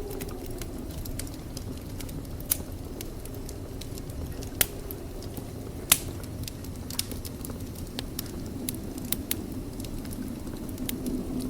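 Wood fire burning in a fireplace: scattered crackles and sharp pops, the loudest three between about two and six seconds in, over a steady low noise from the flames.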